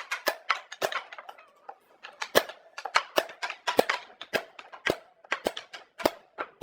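Rapid, irregular sharp knocks and taps, several a second with a brief pause about a second and a half in, as of hand-tool work striking wood.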